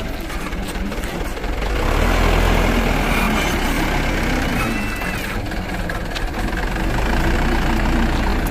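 Dump truck's diesel engine running heavily, getting louder about two seconds in.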